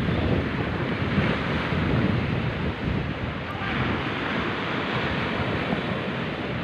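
Sea waves surging and washing with wind buffeting the microphone; the low rumble eases about halfway through and a brighter hiss of water takes over.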